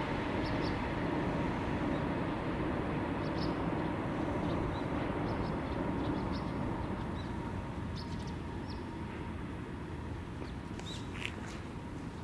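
Rumble of a passing train slowly fading as it moves away, with birds chirping here and there, most near the end.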